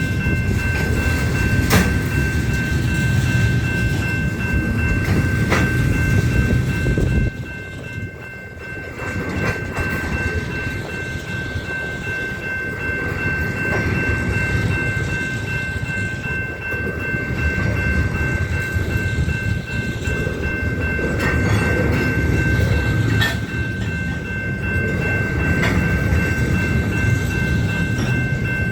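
Union Pacific train cars rolling past: a steady rumble with wheels clacking over rail joints, and a steady high-pitched ringing tone over it. The rumble drops off briefly about seven seconds in.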